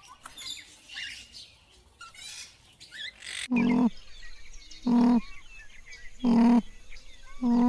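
Small birds chirping. Then, after a sudden cut about three and a half seconds in, a farm animal gives four short, even-pitched calls about a second and a half apart, with faint bird chirps behind them.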